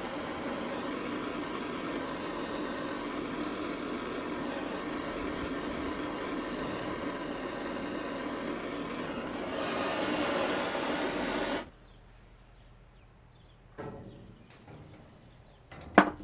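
Propane torch flame burning with a steady hiss, a little louder for its last couple of seconds, then cut off abruptly about twelve seconds in. After it, a soft knock and then a sharp metallic click near the end.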